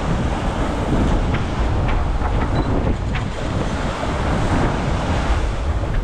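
Wind buffeting the microphone over the steady rush of water past the hull of an IMOCA racing yacht under sail, with a few faint short ticks.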